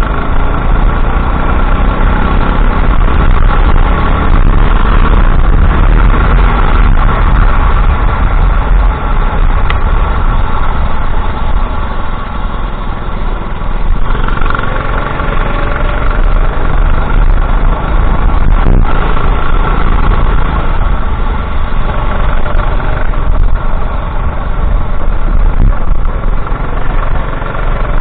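Go-kart engine running under racing load, its pitch repeatedly rising and falling as the throttle is opened and closed.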